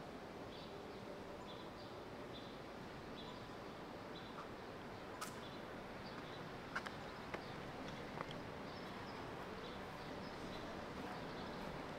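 Outdoor city ambience: a steady background hum with a small bird chirping over and over, a couple of times a second, and a few sharp clicks near the middle.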